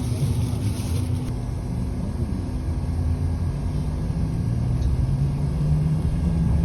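Inside a moving city bus: steady low engine and road rumble, the engine note rising slightly and getting louder near the end.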